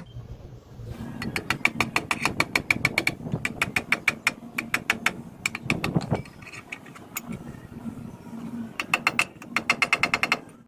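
Rapid light hammer taps on metal, about seven a second, each with a short metallic ring, in several runs broken by brief pauses.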